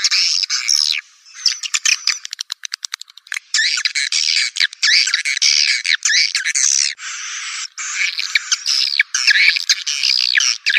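Recorded swiftlet calls from a house-swiftlet lure track: dense, overlapping shrill chirps and twitters. About two seconds in they break into a fast, even run of dry clicks. Near the middle there is a short hissy buzz before the chirping resumes.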